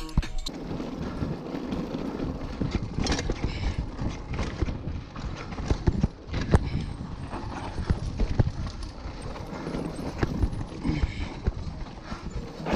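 Mountain bike rattling and clattering over a rough, rocky trail: a steady run of irregular knocks and clicks from the frame, chain and tyres on stones.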